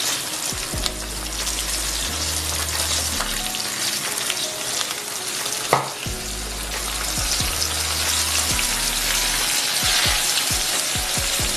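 Breaded chicken pieces deep-frying in hot oil in a pan: a dense, steady crackling sizzle that grows a little louder in the second half. A single sharp clink about six seconds in.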